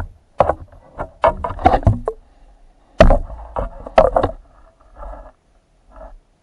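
Water gurgling and knocking in irregular bursts, heard underwater, then dying away near the end.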